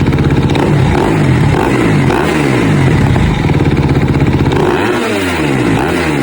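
Kawasaki KX250 four-stroke single-cylinder dirt bike engine being revved repeatedly, its pitch rising and falling several times through the exhaust.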